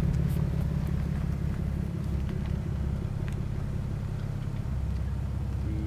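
Car engine and road noise rumbling steadily, heard from inside a moving car, easing slightly in level.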